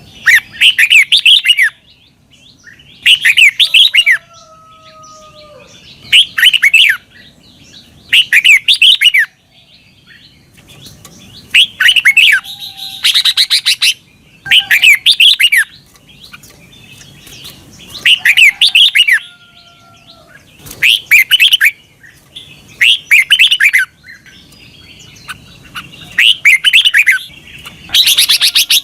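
Red-whiskered bulbul singing short, bright warbled phrases again and again, about one every two to three seconds, with fainter calls in the gaps. This is the doubled 'berl' song style that Thai keepers play to teach their cage bulbuls.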